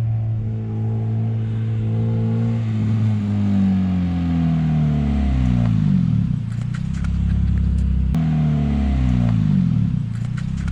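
Car engine running, its pitch sliding down twice, first about three seconds in and again about eight seconds in, with a few sharp clicks along the way.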